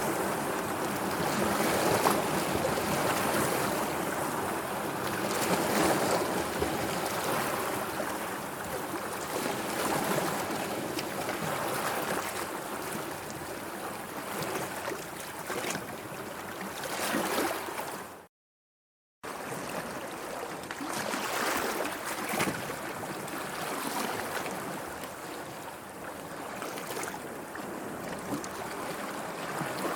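Sea waves washing in a steady, rushing wash that swells and eases every few seconds. The sound drops out to complete silence for about a second roughly two-thirds of the way through, then resumes.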